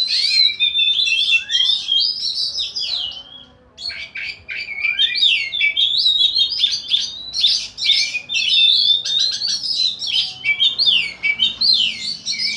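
Caged contest songbirds singing hard and continuously in fast, varied chirps, trills and whistles, with a brief pause about three and a half seconds in. The birds are being tested against each other to see whether they keep singing.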